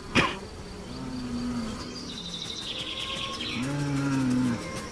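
Bulls lowing: three drawn-out low calls, the longest near the end, as the bulls provoke one another before a fight. A sharp knock comes just after the start, and a rapid high chirping runs in the background through the middle.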